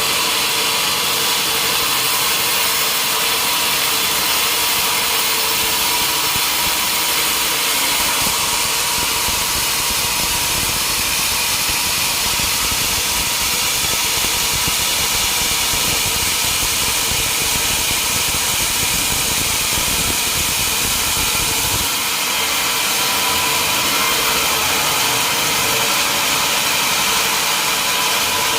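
Sawmill machinery running steadily with a constant mechanical whine, and a heavier low rumble from about a second in until about 22 seconds, when it drops back.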